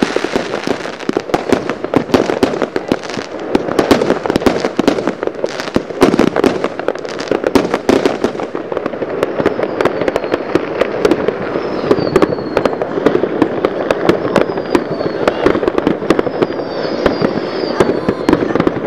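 Fireworks going off: a dense, uneven run of bangs and pops, many overlapping, with a few short falling whistles in the second half.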